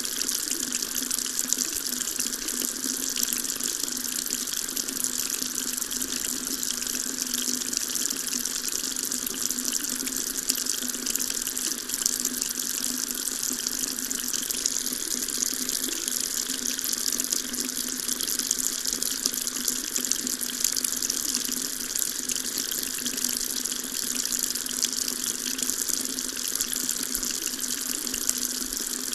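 Water tap running steadily, a continuous stream of water splashing into a sink.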